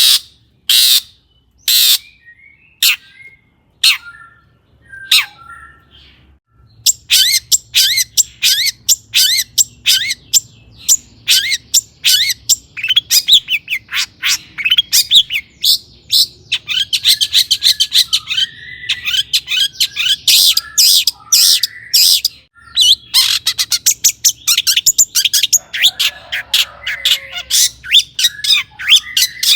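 Long-tailed shrike (cendet) singing vigorously. It starts with a few harsh single calls about a second apart, then from about seven seconds in breaks into a rapid, unbroken run of harsh chattering notes and short down-slurred whistles, the song stuffed with mimicked calls of other birds.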